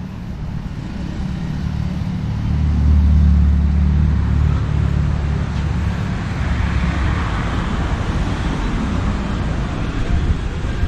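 Street traffic: a motor vehicle passes close by, its low engine rumble swelling about three seconds in, followed by a rising hiss of tyres and engine noise that fades toward the end.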